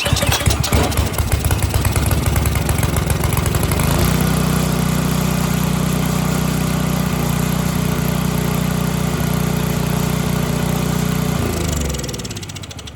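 Snowblower's small gas engine fires up on choke and runs unevenly for about four seconds, then settles into a steady run; a little before the end its pitch drops and it winds down. It starts easily after a carburetor cleaning and fresh fuel, which cured its no-start caused by bad fuel.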